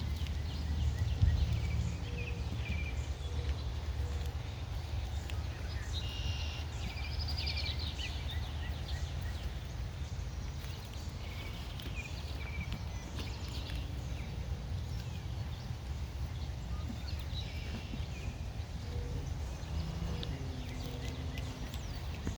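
Birds chirping now and then in short, high calls, the busiest run about six to eight seconds in, over a steady low rumble.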